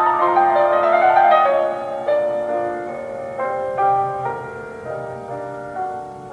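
Solo piano playing classical music: a quick run of notes, then slower single notes and chords that soften.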